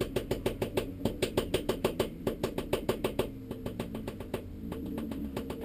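A Toyota Starlet race car's engine cranking on its starter motor, an even beat of about six or seven pulses a second. About three seconds in it fires and catches, running unevenly as it picks up. The starter motor is one the crew says is faulty.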